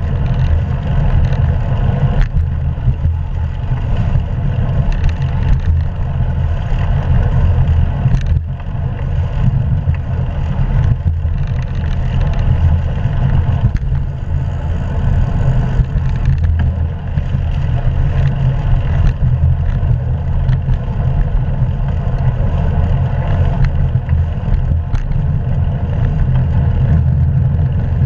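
Steady rumbling rush of wind and road noise from riding a hybrid bicycle at speed, picked up by a GoPro camera's microphone, with no distinct events.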